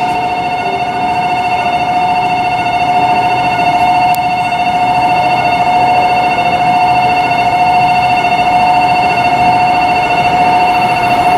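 A station platform's electronic train-approach warning sounding continuously as a steady two-tone ring, signalling that a train is about to pass through.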